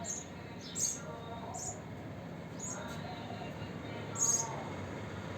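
House sparrows chirping: about five short, high chirps at irregular intervals, the loudest about four seconds in.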